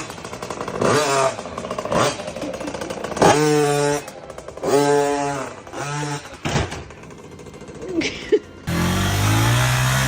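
A motorcycle engine revved in several short bursts, each about half a second to a second long. Near the end a different, steady engine sound takes over.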